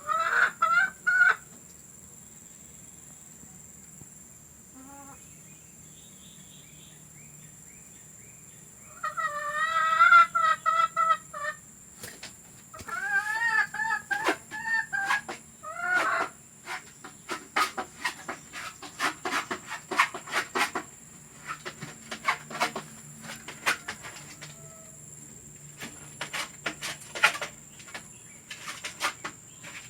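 Domestic hen cackling in short bursts of rapid repeated calls: at the start, then again about nine and thirteen seconds in. From about halfway through, a long run of sharp clicks and light rustling follows.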